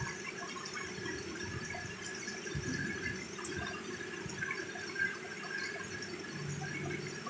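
Heavy rain falling steadily, with scattered drips and one sharper tap about five seconds in.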